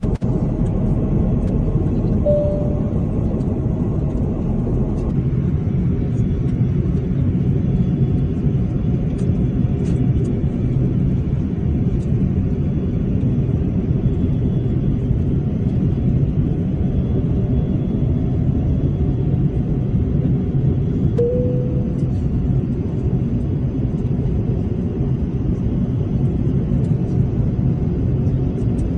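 Steady rumble of a Garuda Indonesia Airbus jet's engines and airflow in flight. Two short tones sound, about two seconds in and about twenty-one seconds in.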